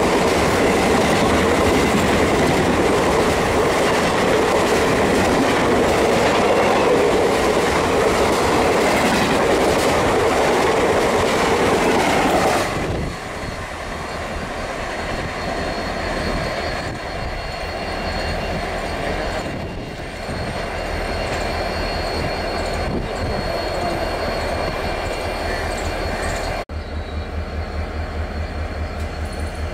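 Train running past on the rails. The loud rolling noise of wheels on track drops off sharply about halfway through and gives way to a quieter rumble. Near the end it breaks off abruptly into a rapid, regular low pulsing.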